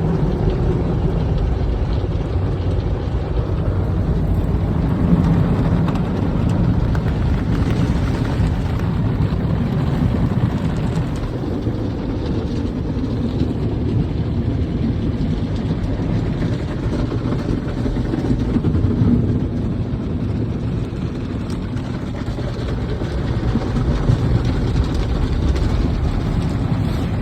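Automatic car wash running: a loud, steady low rumble of wash noise that swells and eases a little.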